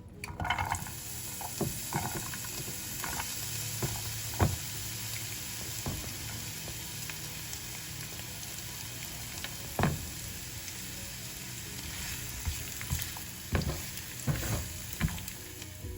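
Food sizzling steadily as it fries in a pan, with a utensil knocking and scraping against the pan now and then.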